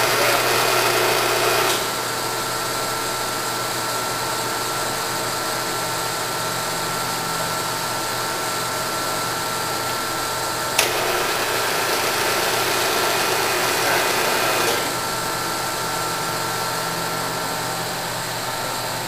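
Nardini AM 3280 engine lathe running under power, a steady machine hum with a few held tones from the headstock gearing and drive. A louder rush from the saddle's rapid traverse in the first two seconds stops, and a sharp click comes about eleven seconds in, after which the sound shifts slightly for a few seconds.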